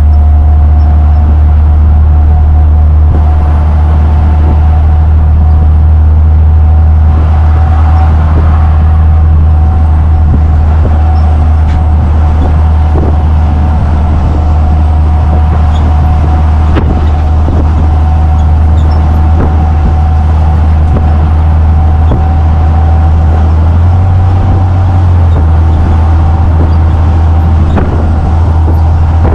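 Heavy truck driving, heard from inside the cab: a loud, steady deep engine and road drone with a thin steady whine above it.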